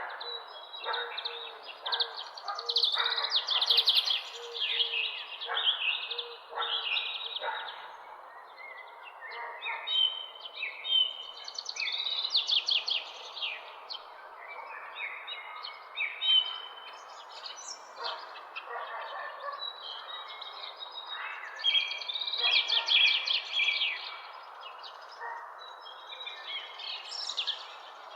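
Several small songbirds chirping and trilling in quick, overlapping phrases over a steady background hiss, with the busiest bursts of song about three seconds in and again about two-thirds of the way through.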